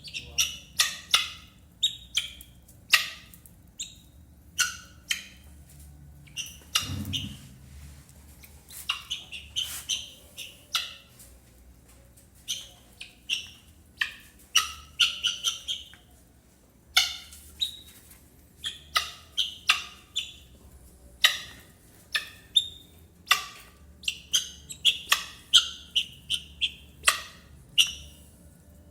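Guinea fowl giving many short, sharp chirps and squawks at an irregular pace, with a brief lower thud about seven seconds in.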